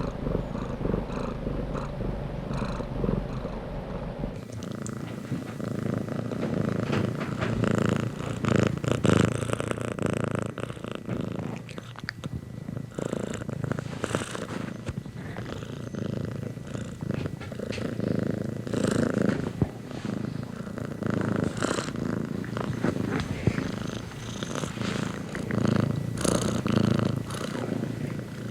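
Domestic cat purring close up, a continuous rhythmic rumble. A deep low hum beneath it drops out about four seconds in.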